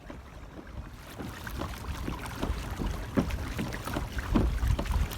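Hobie Outback pedal kayak moving fast through the water: a steady wash of water along the hull, with irregular splashes and slaps and a heavier low thump every second or so.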